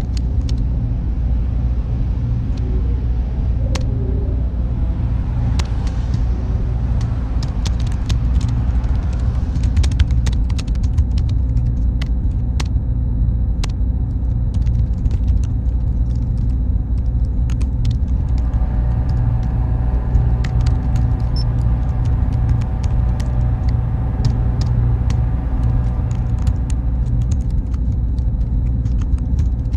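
Steady, loud low rumble of continuous machine-like ambient noise, with scattered faint clicks and a thin, faint high steady tone. From about 18 seconds in, a few faint steady tones hum along with it.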